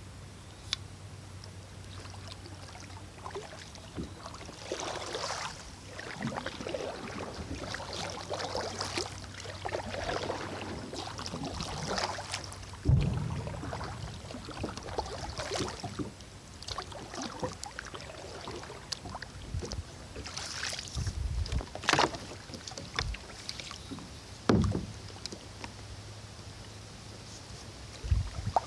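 Kayak paddling: water splashing and trickling off the paddle blades at irregular strokes, with a few sharp knocks, the loudest about a third of the way in and again near the end.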